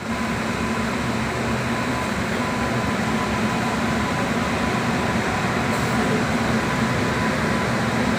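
Steady rumble and hum of a train, with a few constant humming tones and no distinct knocks or horn.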